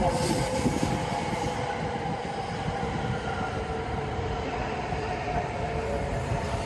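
JR East E7 series Shinkansen running slowly into the station as it brakes to a stop: a steady rumble of wheels on rail, with a whine that falls slowly in pitch as the train slows.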